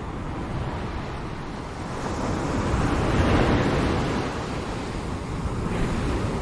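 Ocean waves breaking on a shore: a wave's wash swells to a peak about three seconds in and recedes, and another surge starts near the end.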